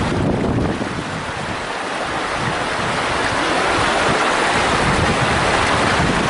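Mountain stream rushing steadily over rocks, with low wind buffeting on the microphone that eases about a second in.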